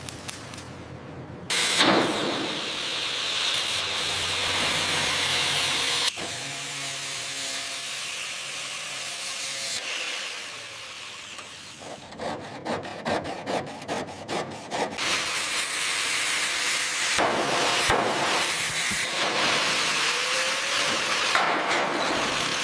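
Power-tool work noise: a steady grinding or sanding hiss, broken off suddenly about six seconds in, with a stretch of rapid, regular scraping strokes near the middle.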